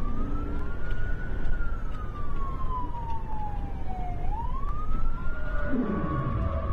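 Police siren on the wail setting during a pursuit, its pitch slowly rising and falling about once every four seconds, over a steady low rumble of engine and wind.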